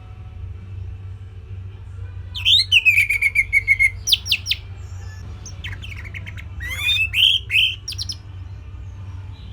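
Orange-headed thrush singing: after about two seconds, two short bursts of song a second apart, each with rising whistles, a quick trill and fast falling notes, over a steady low hum.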